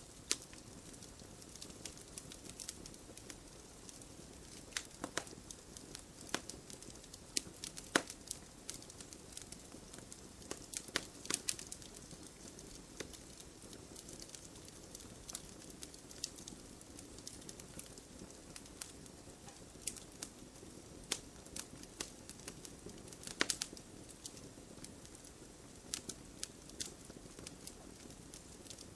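Campfire crackling: irregular sharp pops and snaps, a few louder than the rest, over a steady low hiss of burning.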